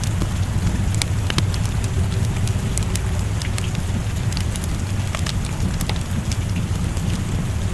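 Wood fire crackling in a fireplace, with scattered sharp pops at irregular intervals, over the steady hiss and rumble of rain.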